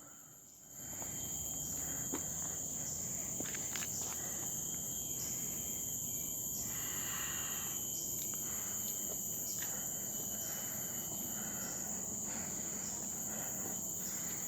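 Forest insects shrilling in a steady, high-pitched chorus that does not let up, with a few faint clicks over it. The chorus comes in about a second after a short quiet moment at the very start.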